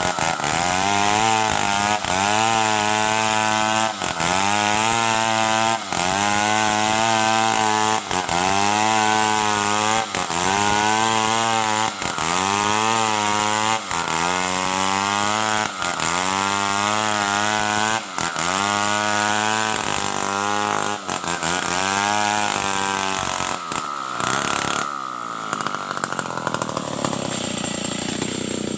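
Stihl 070 two-stroke chainsaw cutting wood, its engine pulling down under load and recovering in a regular cycle about every two seconds, as in a run of short cuts. Near the end the cycling stops and the engine runs on more steadily.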